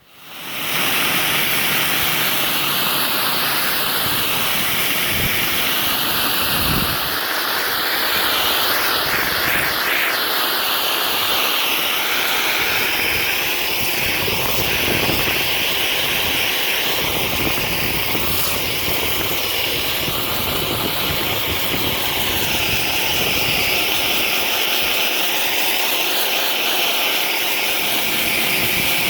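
Pressure washer running with a rotary surface cleaner spraying water across pavers: a loud, steady hiss of spray over the machine's drone.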